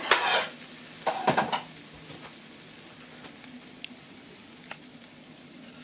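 Potato, onion and ham slices sizzling in a frying pan while being stirred with chopsticks: two loud bursts of stirring in the first second and a half, then a steady low sizzle with a few small ticks.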